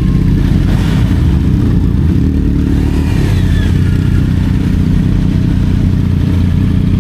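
Motorcycle engine running steadily, a low, even drone with no pauses.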